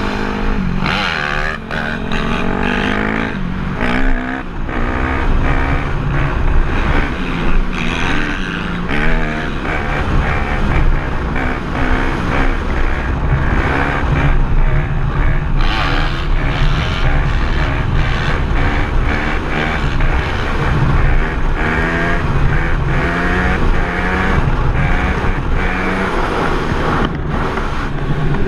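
Dirt bike engine revving, its pitch climbing and dropping again and again as the bike accelerates and shifts gears.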